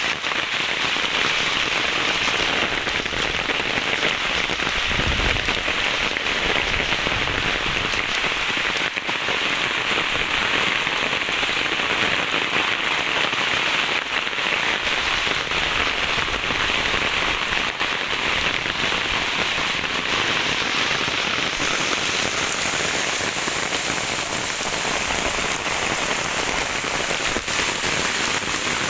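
Steady heavy rain falling, a dense even hiss of drops striking surfaces.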